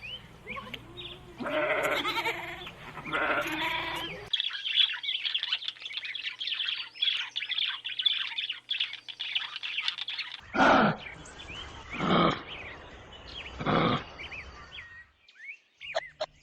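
Bleating calls, then a dense chorus of small birds chirping for about six seconds, then three loud, separate bleating calls.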